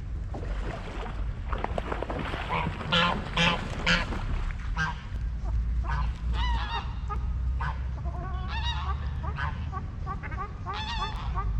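Geese honking: a few loud calls about three to four seconds in, then a run of shorter repeated calls, over a steady low rumble.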